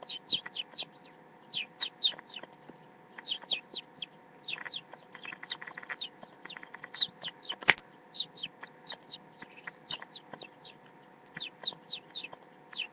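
A man imitating a sparrow with his mouth: short, high chirps in quick runs of three to five, repeated over and over, with one sharp click about eight seconds in.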